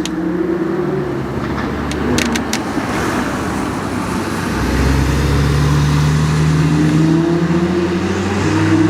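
Sports car engine running on a sprint course, its note holding fairly steady with small rises and falls, growing louder about halfway through as the car comes closer.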